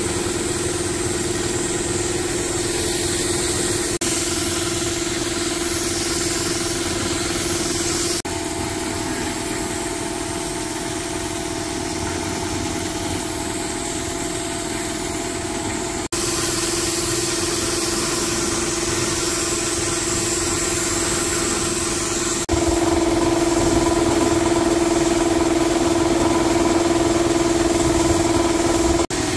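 Engine running steadily at idle, typical of the restored vintage car's engine. Its tone and loudness change abruptly three times, and it is loudest over the last several seconds.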